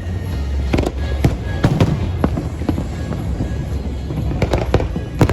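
Aerial fireworks going off in a dense display: a rapid string of sharp bangs and crackles over a steady low rumble.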